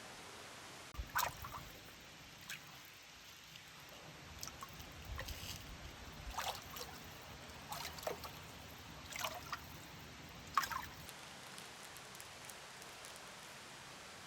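Water sloshing and splashing in cold stream water: a handful of short splashes spread over about ten seconds, over a low rumble.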